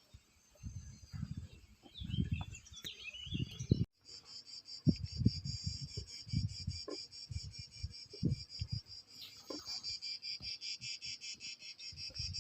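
A high-pitched chirping trill, many even chirps a second, starts about four seconds in and keeps going steadily. Low thumps and rumbles sound under it through the first part.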